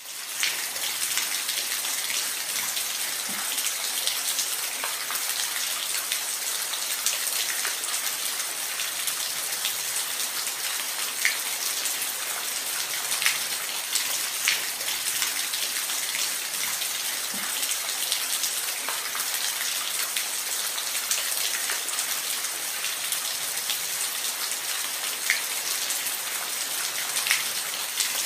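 Steady rain with many individual drops ticking on a surface, a dense even hiss strongest in the high range.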